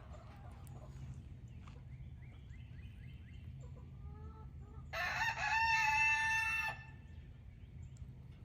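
A rooster crows once, loud and close, for nearly two seconds about five seconds in. Before it come fainter, shorter chicken calls.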